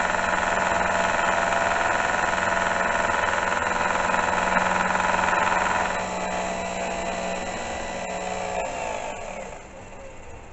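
Metal-cutting milling machine running with a steady geared whine over a higher hiss of cutting. The cutting noise eases about six seconds in, then the spindle winds down, its whine falling in pitch as the machine is switched off near the end.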